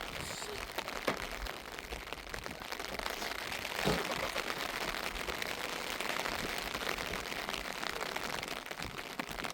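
Heavy rain falling in a steady dense patter, with a louder knock about four seconds in.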